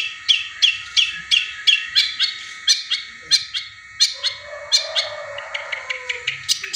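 Long-tailed shrike mimicking the collared kingfisher's call: a fast string of sharp, downward-sliding chirps, about three a second, that quicken near the end. A lower warbling sound runs underneath around the middle.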